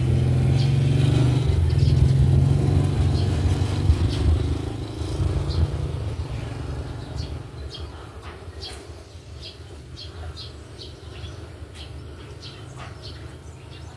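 A motor vehicle's engine passing close by, loud at first and fading away over the first half. Then come short, rapid sparrow chirps.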